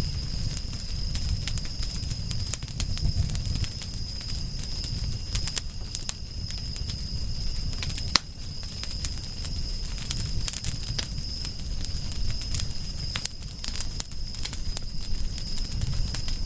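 Campfire crackling, with many sharp irregular pops and snaps over a low steady rumble; one louder snap comes about eight seconds in.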